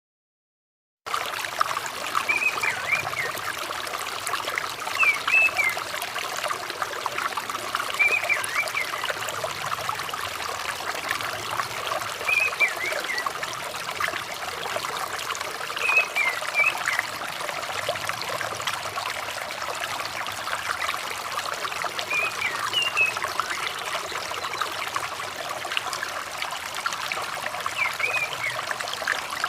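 Flowing water trickling steadily, starting about a second in, with short orange-headed thrush calls repeated every few seconds over it: a birdkeeper's therapy track to coax a thrush that has stopped singing.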